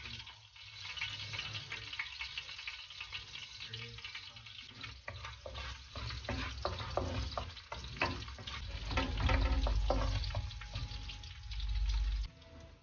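Chopped shallots sizzling and crackling in hot oil in an aluminium wok, with a wooden spatula stirring them across the pan. A low rumble comes in around the middle and again near the end.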